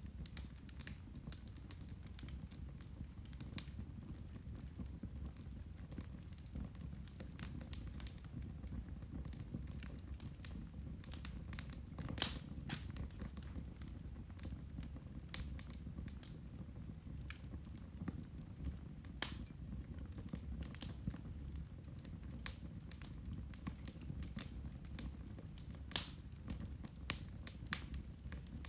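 Turf (peat) fire burning with irregular sharp crackles and pops, a few louder ones, over a steady low rumble.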